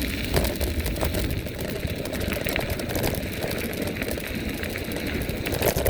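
Wind rushing over the microphone on a moving Vivi 350 W electric bike, with low rumble from the tyres and scattered clicks and rattles from the bike over rough ground. The motor, at full throttle, is not heard.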